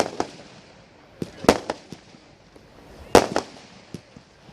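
Aerial fireworks bursting: sharp bangs coming in irregular clusters of two or three, with the loudest cluster about three seconds in.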